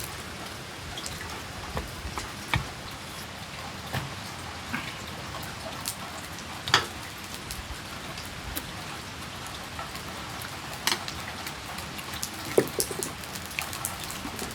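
Steady rain falling, an even hiss with single heavier drops striking now and then, a few of them sharp and loud.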